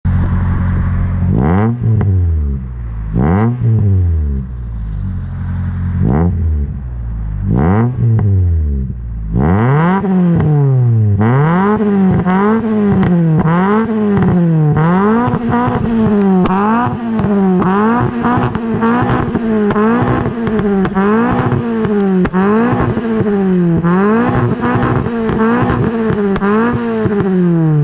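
Nissan 100NX's SR20DE 2.0-litre four-cylinder engine heard through its exhaust: idling with four short throttle blips, then from about ten seconds in revved up and down repeatedly, about once a second, before dropping back to idle near the end.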